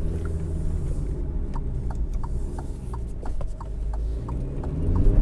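In-cabin sound of an Alfa Romeo Stelvio Veloce's 2.2-litre four-cylinder turbodiesel pulling in first gear out of a roundabout: a steady low engine drone with road noise and light ticks, the engine note rising and getting louder near the end as it accelerates.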